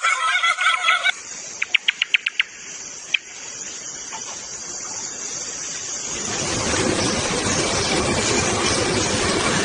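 Bird calls in rainforest ambience: a wavering call that cuts off about a second in, then a quick run of six sharp ringing notes and one more a second later, followed by a steady hiss of forest noise with insects that grows louder over the last few seconds.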